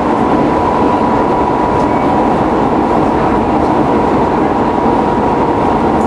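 Keisei 3700 series electric train running steadily at speed, heard from inside the car: an even rumble of wheels on rail with a thin steady whine.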